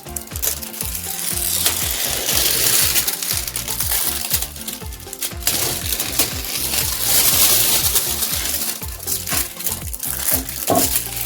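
Many small hard plastic pieces rattling and clicking, with plastic packaging crinkling: resin diamond painting drills being handled, over background music.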